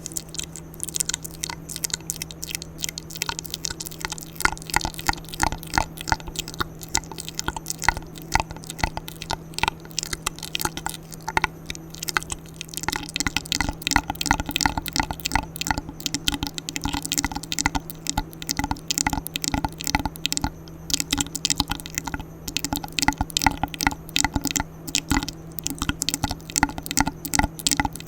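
ASMR mouth sounds close to the microphone: rapid, irregular wet clicks and smacks, several a second, with no pauses.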